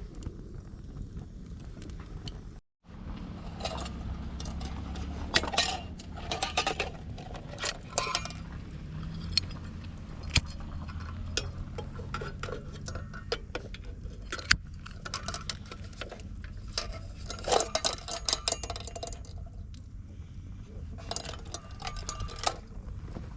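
Repeated clinks, clatters and light metallic knocks of camp gear and tableware being handled, over a steady low rumble.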